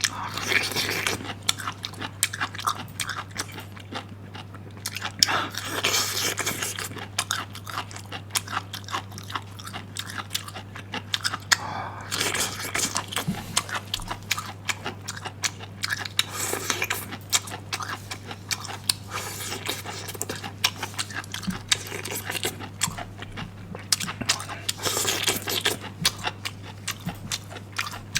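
Close-miked chewing and crunching of pickled bamboo shoots in chili oil: irregular crisp bites and mouth clicks, with a steady low hum underneath.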